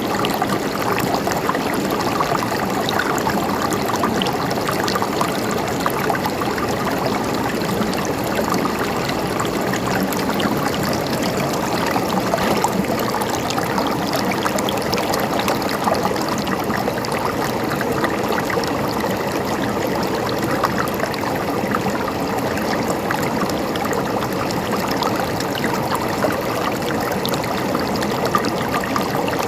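River water flowing and gurgling steadily over stones, a continuous rushing babble with small splashes.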